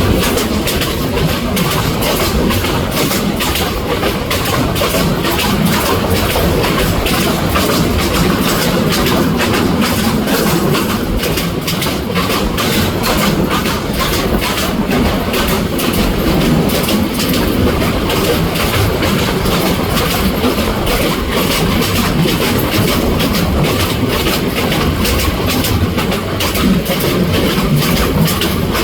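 Local passenger train running at speed, wheels clattering over the rail joints in a steady clickety-clack over a continuous rumble.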